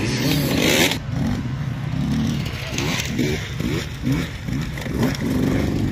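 Off-road enduro motorcycle engine revving in quick throttle blips, the pitch sweeping up and down about twice a second as the bike is worked over a tyre obstacle. A loud rushing noise comes in the first second.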